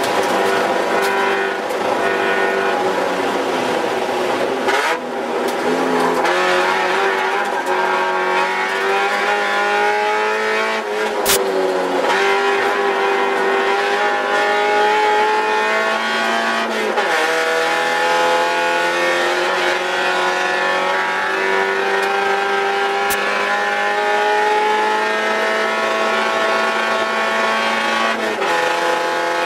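Spec Miata race car's four-cylinder engine heard from inside the cockpit at racing speed. Its pitch climbs steadily under throttle and drops back at each gear change, several times over. A sharp click comes at about eleven seconds in.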